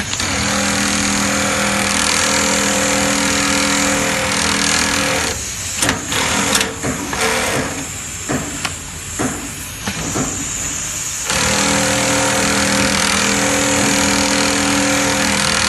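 Shoe-making machine running with a steady motor hum and hiss. It stops for about six seconds, leaving a few knocks and clicks of handling, then runs again.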